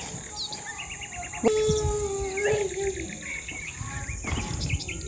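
Outdoor ambience: a steady high insect buzz, with birds chirping. About a second and a half in, a long held note, like a child's drawn-out call, lasts about a second and a half.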